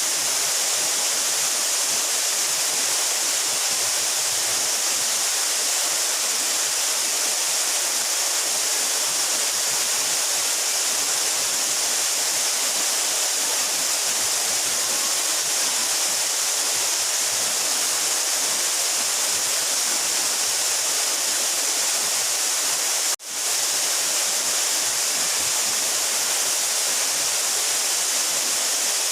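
Steady rushing hiss of a 12-metre mountain waterfall, strongest in the high range. It drops out for an instant about 23 seconds in, then resumes.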